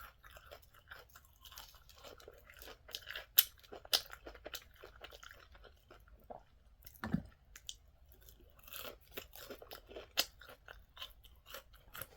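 A person chewing and biting into crunchy fried food, with irregular crisp crunches throughout, two sharper ones about three and a half and four seconds in. A dull low thump comes about seven seconds in.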